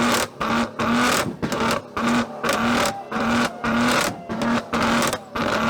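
A car engine revved in quick repeated blips, about two a second in an even rhythm.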